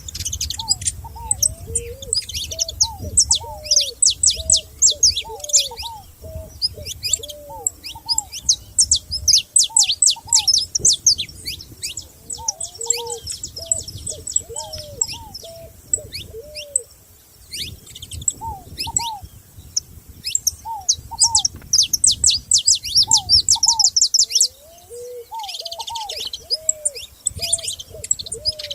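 Several wild birds singing together: phrases of fast, high chirps and trills, over a lower call repeated again and again in short cooing notes, typical of a dove.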